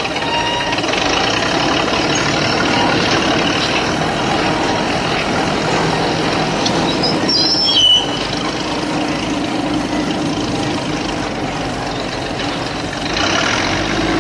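Steady tractor engine sound running, with a brief high squeal about eight seconds in.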